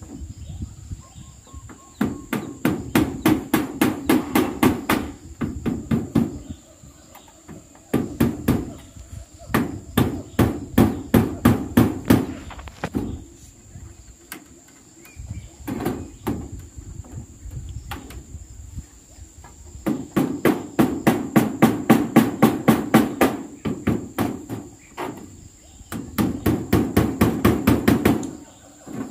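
Hammer driving nails in quick runs of strikes, about four a second, several bursts separated by short pauses. A steady high insect drone runs underneath.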